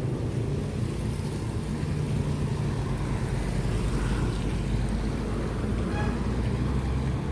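Steady low rumble of road traffic and vehicle engines, with a faint short tone about six seconds in.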